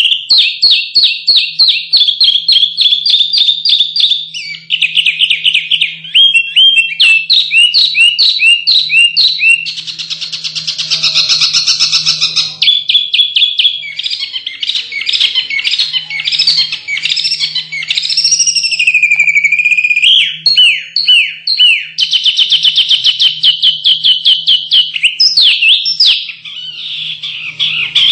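Small songbirds singing loudly and without pause: fast strings of repeated high chirps, a buzzy rapid trill about ten seconds in, and swooping whistled notes a little later, the song changing every few seconds. A faint low hum lies underneath.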